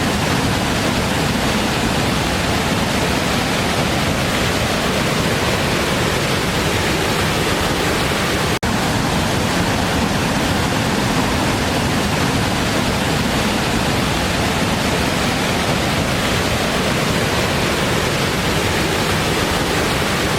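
Waterfall: a steady, loud rush of falling water, broken only by a momentary dropout about eight and a half seconds in.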